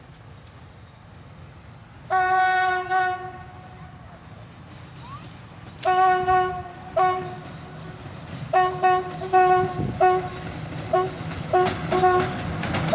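Locomotive horn sounding a single steady note: one long blast, two shorter blasts, then a quick series of short toots, over the low rumble of an approaching train.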